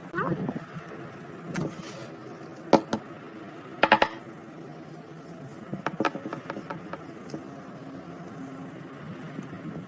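Scattered sharp clicks, taps and knocks of small hard parts and tools being handled, including a quick run of clicks about six seconds in, over a low steady hum.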